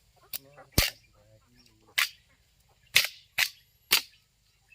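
A series of about six sharp knocks at uneven intervals, the loudest a little under a second in and around three seconds in.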